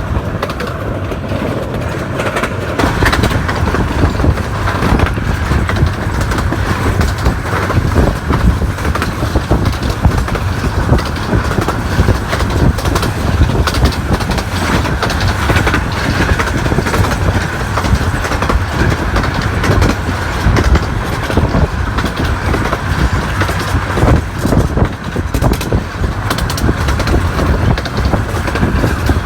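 Miniature 15-inch gauge train running on the track: a steady rumble with a constant irregular clatter of wheels on rail.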